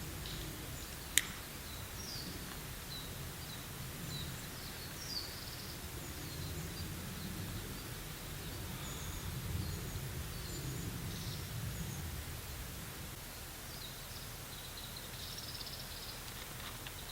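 Outdoor ambience: a low, fluctuating rumble of wind with small birds chirping on and off throughout. A single sharp click comes about a second in.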